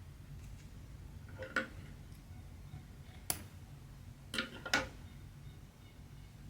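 Hand cross-stitching: four light, sharp taps and clicks of the needle and thread working through the canvas, the last two close together, over a steady low hum.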